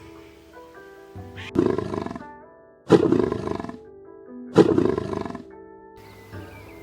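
Three loud animal roars about a second and a half apart, each short and fading, over background music.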